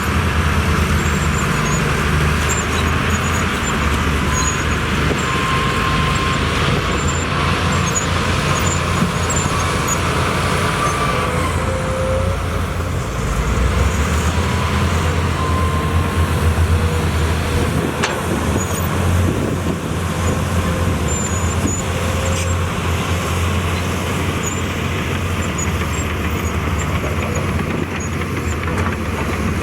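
Heavy diesel earthmoving machinery running steadily: a deep engine rumble with a rougher haze above it, the engine note shifting about twelve seconds in.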